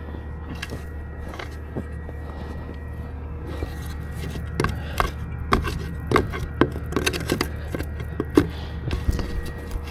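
Furnace parts and tools being handled, with sharp clicks and knocks coming thicker from about a third of the way in, over a steady low machine hum.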